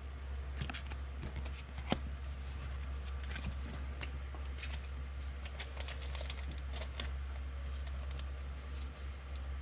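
Football trading cards being handled and shuffled: scattered light rustles and ticks of card stock, one sharper click about two seconds in, over a steady low electrical hum.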